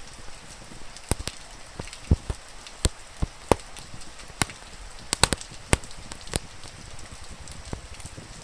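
Steady rain, with irregular sharp crackles and pops from a wood fire, about a dozen in a few seconds.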